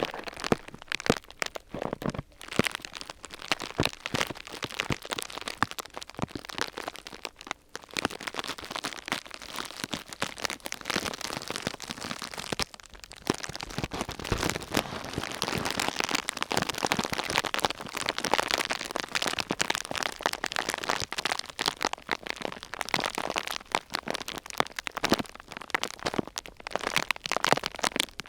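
Thin sheet material crumpled and crinkled close to the microphone: a dense, irregular run of small crackles that briefly lets up about 8 and 13 seconds in.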